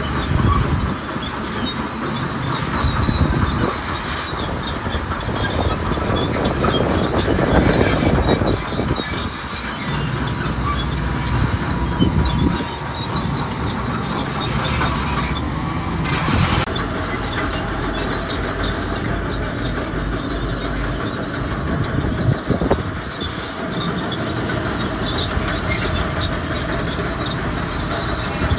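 A crawler bulldozer working, its steel tracks clanking and squealing over a steady mechanical din, with a few heavier thuds along the way.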